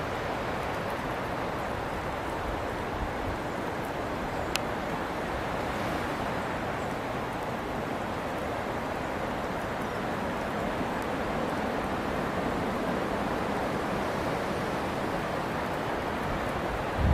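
Strong wind blowing through forest trees, a steady, even rush with one faint click about four and a half seconds in.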